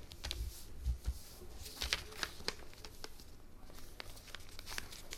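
A sheet of paper being folded and creased by hand: irregular crinkles, rustles and sharp little clicks, with a few soft thumps.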